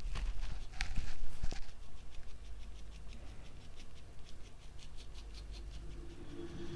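Paintbrush dabbing paint onto a canvas in quick, regular light taps, the stippling used to paint tree reflections in water. A low hum starts near the end.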